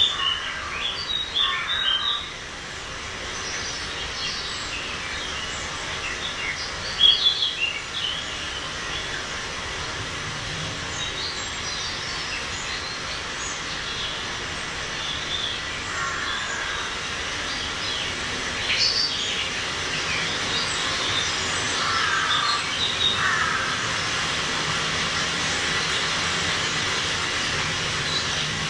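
Birds chirping and calling on and off over steady background noise.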